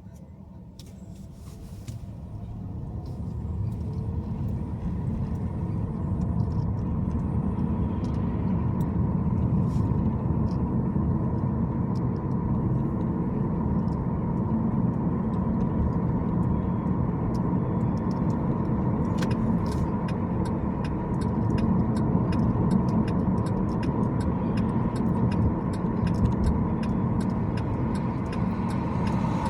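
Car driving: a steady low rumble of engine and road noise that grows louder over the first few seconds as the car gathers speed, then holds steady. A run of faint ticks comes through in the second half.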